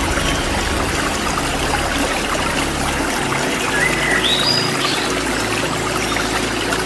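Waterfall rushing steadily, with a bird giving a brief pair of rising chirps about four seconds in.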